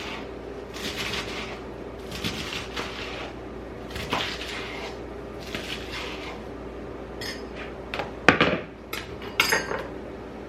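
Kitchen dishes and utensils being handled: short scraping and rustling noises, then a cluster of sharp clinks and knocks with brief ringing near the end, the loudest about eight seconds in. A faint steady hum runs underneath.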